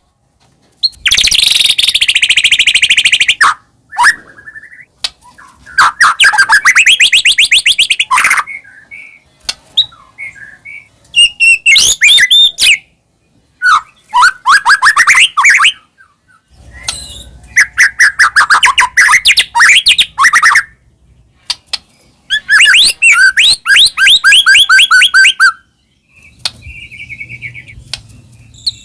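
White-rumped shama (murai batu) in loud, energetic full song: phrases of fast, rapidly repeated trilled notes, each a second or two long, broken by short pauses.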